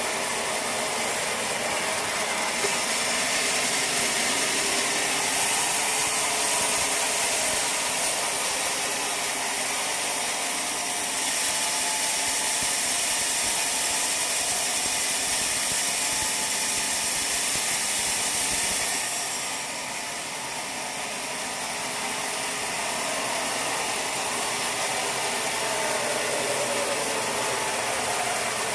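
Sawmill machinery running steadily, a dense mechanical clatter with a strong hiss, easing off briefly a little after two-thirds of the way in before building again.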